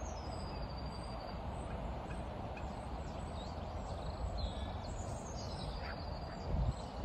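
Seagulls calling: short, high calls and falling notes over a steady outdoor noise. A few low bumps come near the end.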